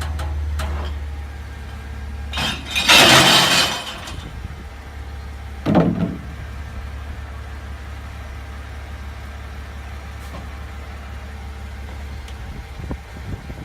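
CNG garbage truck engine idling with a steady low hum. About three seconds in comes a loud, noisy burst lasting about a second, and a shorter, fainter one near six seconds.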